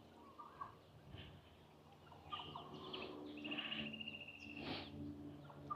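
Birds calling faintly, with scattered short chirps and a rapid, even trill about three and a half seconds in.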